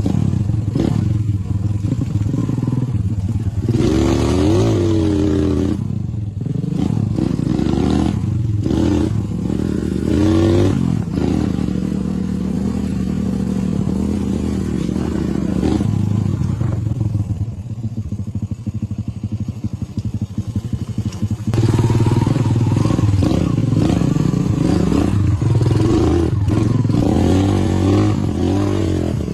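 Motorcycle engine running as the bike is ridden, its pitch rising and falling with the throttle a few times early on, easing off for a few seconds past the middle, then pulling louder again near the end.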